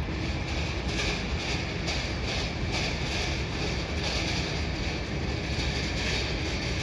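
Steady rumbling roar of a Boeing 777's jet engines as the airliner lands, with a hiss that keeps swelling and fading.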